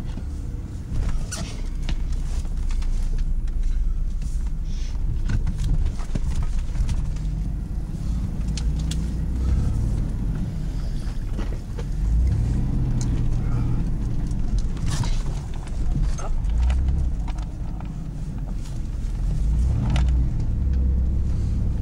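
GMC Jimmy's engine running while it drives slowly along a trail, the revs rising and falling in several slow swells, with scattered short knocks and scrapes over it.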